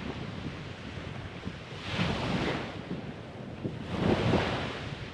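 Small waves washing in on the shore, with wind buffeting the microphone; the wash swells twice, about two seconds in and again about four seconds in.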